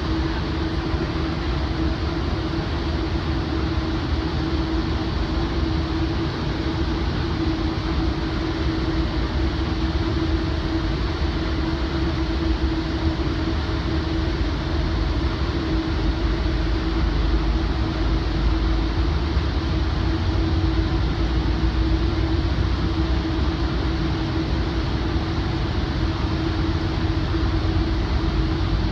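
Commuter train running on the line, heard inside a Rotem cab car coupled behind a BNSF GE AC4400CW diesel locomotive: a steady low rumble and rail noise with a steady hum over it, swelling slightly partway through.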